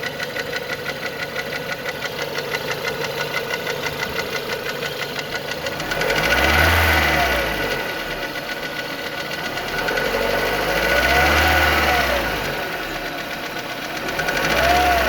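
Renault Mégane II engine idling with a fast, even knock, then revved up and let back down three times. The knock is an unexplained engine fault that the owner is trying to identify.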